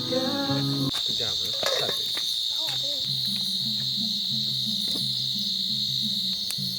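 Night-time chorus of crickets and other insects: one steady, high-pitched trill. A low, broken hum sits underneath from about three seconds in.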